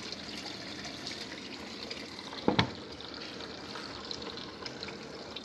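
Water running from the supply into the tub of an Innovex DSAN-65 semi-automatic washing machine, a steady filling sound. A short double knock about two and a half seconds in.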